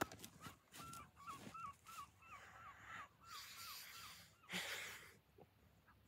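A bird calling a quick series of about a dozen short, clear notes, some three a second, faint. Near the end of the calls comes a short burst of rustling noise.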